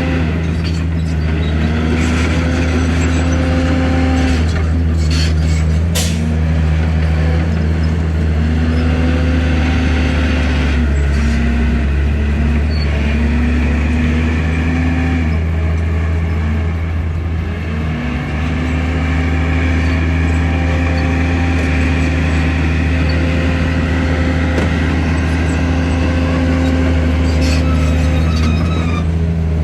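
Heavy diesel construction machinery running steadily under load, with a higher whine that wavers in pitch and stops and starts every second or two, and a few sharp metallic clanks about five to six seconds in.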